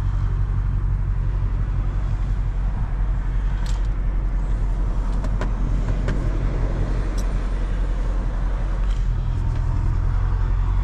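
BMW F90 M5's twin-turbo V8 running steadily with a low, even rumble and no revving. A few light clicks come through about four to seven seconds in.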